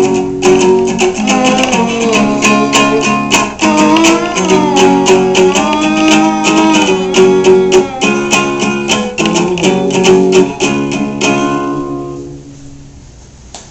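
Acoustic guitar playing the closing bars of a song with strummed chords. About eleven seconds in, the last chord is left to ring and fades away.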